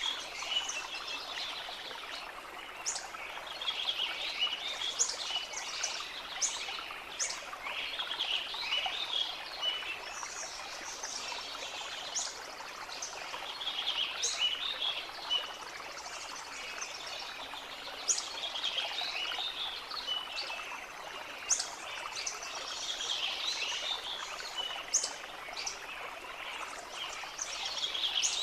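Birds singing in repeated bright chirping and trilling phrases every second or two, over a steady rush of running water.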